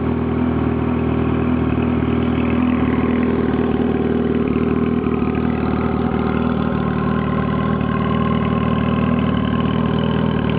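2007 Yamaha YZF-R1's inline-four idling steadily through a straight-through stainless exhaust with no catalytic converter.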